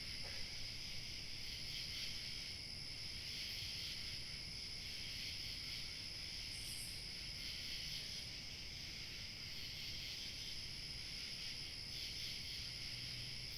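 Evening chorus of crickets chirping steadily, with light wind rumbling low underneath and one brief higher chirp about halfway through.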